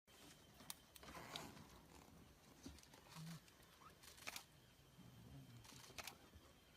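Near silence: faint outdoor background with a few scattered soft clicks and a brief faint low sound.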